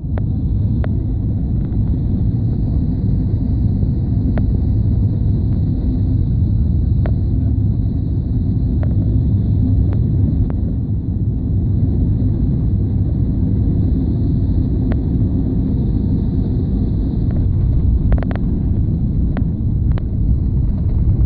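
Steady low rumble of a jet airliner's engines and airflow heard inside the passenger cabin, with a thin steady hiss above it and a few faint clicks or rattles.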